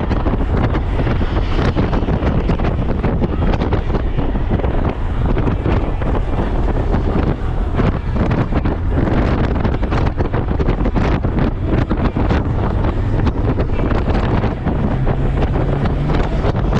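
Heavy wind buffeting the microphone while riding a Honda Gold Wing motorcycle at speed: a loud, steady rush of wind.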